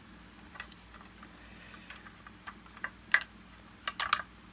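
Small sharp clicks and taps from hand work with small wire snippers on the vacuum's internal wiring and plastic parts. The clicks are scattered: a few single ones, the loudest a bit past three seconds in, then a quick run of three or four near the end.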